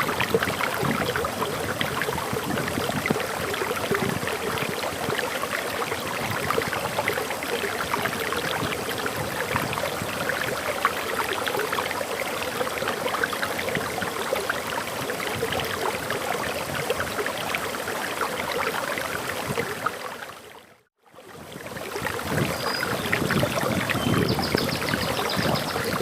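Forest waterfall flowing, a steady rush of falling water. About twenty seconds in it fades out briefly to near silence and fades back in. Near the end, faint high bird chirps sound over the water.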